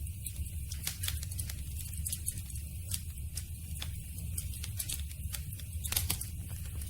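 Campfire burning, its wood crackling and popping irregularly over a steady low rumble, with one louder pop near the end.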